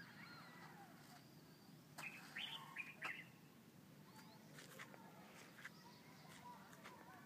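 Quiet outdoor ambience with small birds chirping now and then, a few clearer chirps about two to three seconds in.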